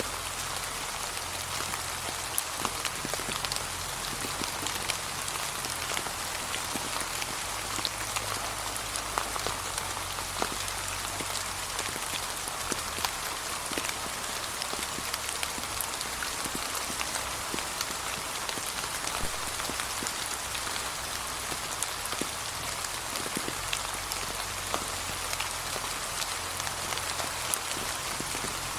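Gentle, steady rain falling on fallen autumn leaves: an even hiss with many distinct drop ticks scattered throughout.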